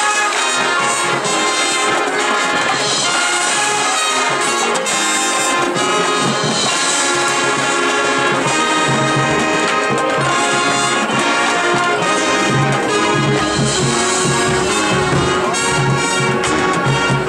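High school marching band playing, with trumpets and trombones holding loud chords. A low pulsing beat comes in about halfway through.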